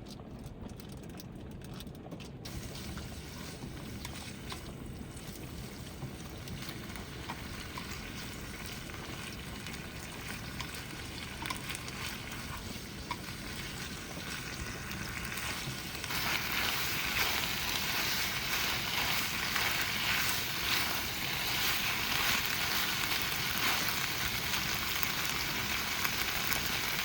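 Heavy rain pelting the van's roof and body in a steady hiss of many small patters, growing clearly louder about two-thirds of the way through.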